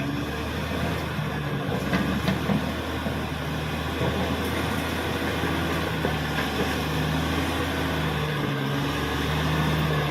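CAT D6R XL bulldozer's diesel engine running steadily, with a couple of faint knocks about two seconds in.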